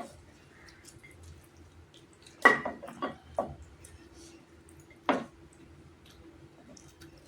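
Mealtime table sounds: four sharp clicks and clinks of dishes and food, the loudest about two and a half seconds in with a short ring, over a faint steady hum.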